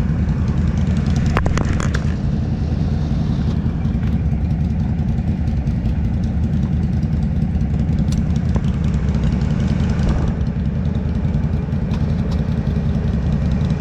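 ATV engine idling steadily, with a few sharp clicks about a second and a half in.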